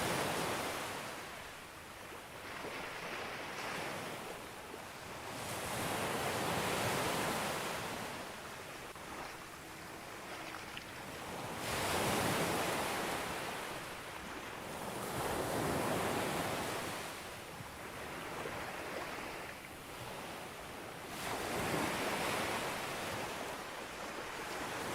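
Sea waves breaking on a beach: the surf swells up and falls back about five times, every four to six seconds.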